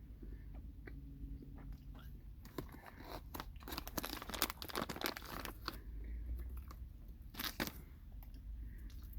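Close-up mouth sounds of chewing a sour chewy sweet coated in sugary sherbet: a dense run of clicky, crunchy chewing for about three seconds, then a shorter burst a couple of seconds later.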